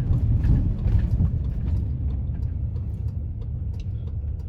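Steady low rumble of a car in motion heard from inside the cabin, engine and tyre noise.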